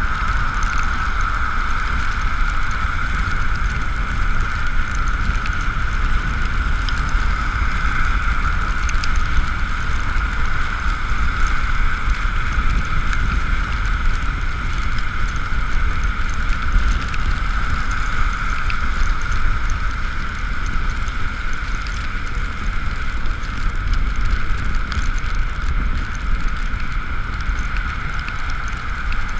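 Ekoway ML5000 electric vehicle on the move in the rain: a steady whine from its drive over constant low wind and road rumble.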